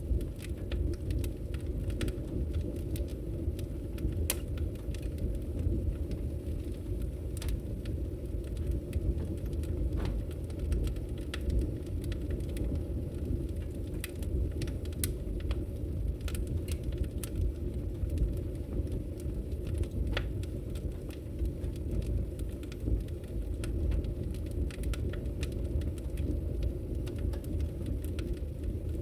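Wood logs burning in a fireplace, with scattered sharp crackles and pops at irregular intervals over a steady low rumble.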